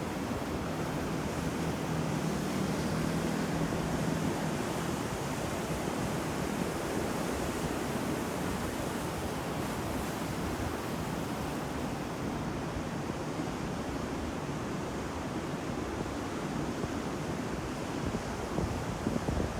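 Ocean waves breaking and washing on the shore in a continuous roar of surf, with a slight swell a few seconds in.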